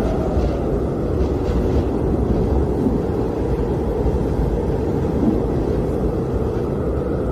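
Blizzard wind blowing steadily, a deep rushing noise with no let-up.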